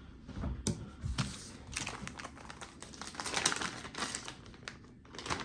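Fishing-lure packaging being handled: a rapid run of small clicks and crinkles of plastic, densest through the middle.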